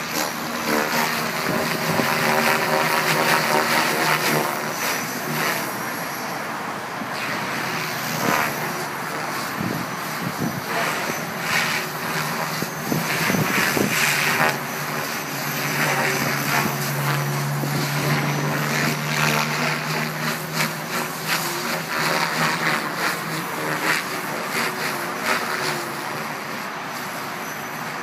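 Logo 500 electric radio-controlled helicopter in flight: the whirr of its spinning rotor blades and the whine of its motor, rising and falling in level as it manoeuvres, with a steadier held tone for a few seconds near the middle.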